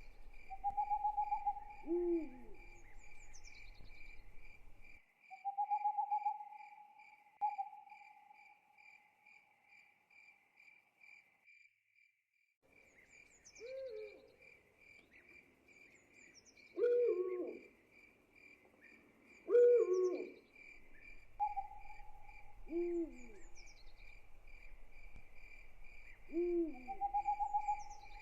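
Night ambience: an owl hooting repeatedly over a steady, evenly pulsing chirp of crickets, with a few thin high chirps. The sound drops out briefly about twelve seconds in, then the hoots and crickets return.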